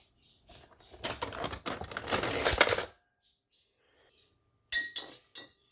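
A metal spoon scraping and rattling against a cup for about two seconds. Near the end come three sharp clinks with a short ring.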